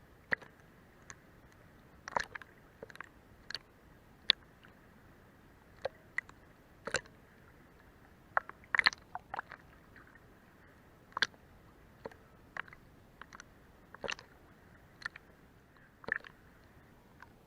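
Sea water lapping beneath a boat's hull: irregular small sharp slaps and splashes, some quick clusters of two or three, over a faint steady hiss.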